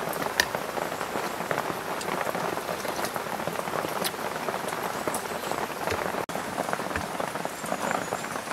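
Steady rain pattering, a dense crackling hiss, with a few light clinks of a spoon in a ceramic bowl.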